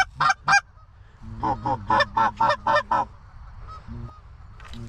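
Canada goose honking: three sharp honks, then a quick run of about eight more starting about a second in. The honking stops about three seconds in, leaving only faint sounds.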